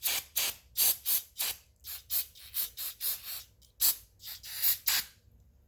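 Aerosol spray can hissing in a rapid series of short spurts, about three a second, spraying down carburetor parts. The spurts stop just before the end.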